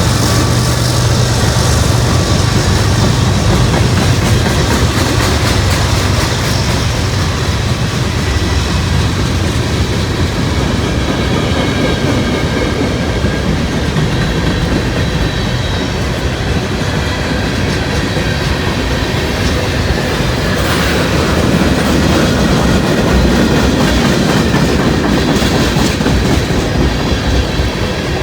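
CSX mixed manifest freight train passing close by: a deep diesel hum over the first several seconds gives way to a long line of freight cars rolling past, wheels clicking and rumbling steadily over the rails with faint high wheel squeal.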